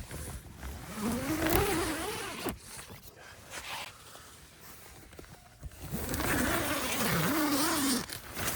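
A flying insect buzzing close past the microphone twice, its wingbeat pitch wavering up and down as it moves.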